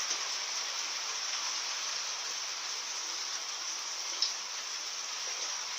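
Steady hiss of rain falling, with one light click about four seconds in.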